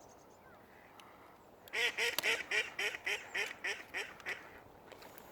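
A duck quacking in a quick run of about ten calls over some two and a half seconds, starting a little under two seconds in and getting slightly slower and quieter toward the end.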